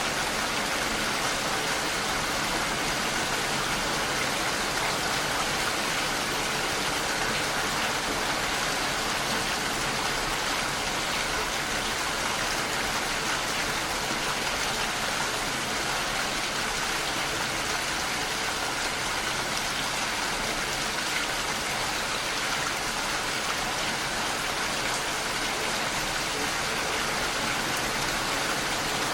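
Heavy rain falling steadily against a window pane, a dense, even hiss with no break or change.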